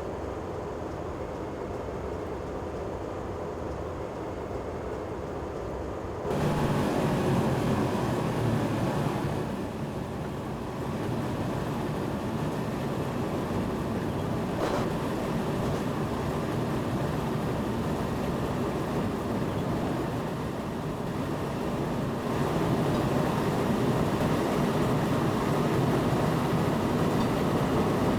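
Train running, heard from inside the driver's cab: a steady rumble and rattle that gets suddenly louder about six seconds in, eases off briefly around ten seconds, and grows louder again a little after twenty seconds, with a single click midway.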